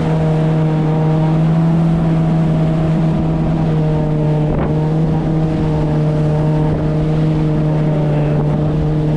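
2018 Yamaha FX HO jet ski's four-stroke engine running at a steady cruising speed, its drone holding one pitch, over a steady rush of water and wind.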